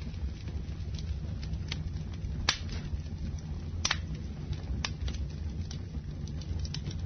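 Campfire burning: a steady low rumble of flames with irregular sharp crackles and pops of burning wood, the loudest two about two and a half and four seconds in.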